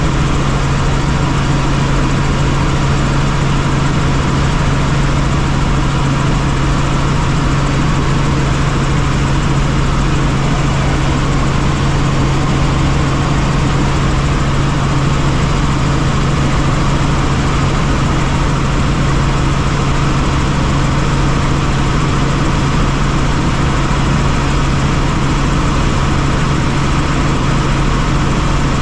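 Tour helicopter in flight: a steady, unbroken drone of engine and rotors with a constant low hum.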